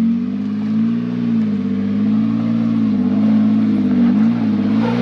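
Engine of a lifted Jeep crawling up a steep rock climb, its note rising and falling in small swells as the throttle is worked.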